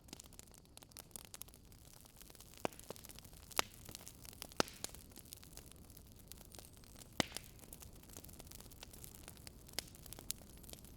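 Campfire of burning wood crackling: a steady soft hiss with irregular sharp pops, a few louder ones standing out.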